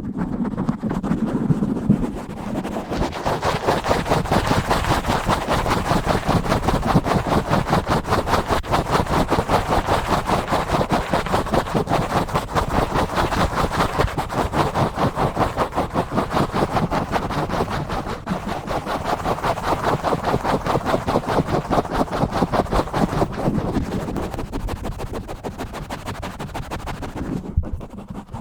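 Fast, aggressive scratching directly on a microphone, many rapid rhythmic strokes a second. The first two seconds are a duller, lower rubbing before the quick scratching sets in, and it eases off near the end.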